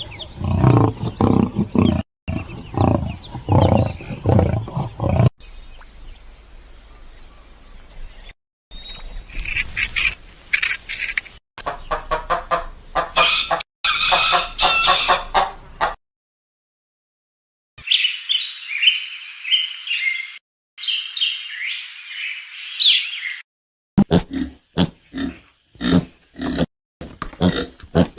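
Farm animal calls in several short clips cut together: low repeated calls at first, then high chirping, then a mix of calls, and a quick string of short low sounds near the end. About two seconds of silence fall in the middle.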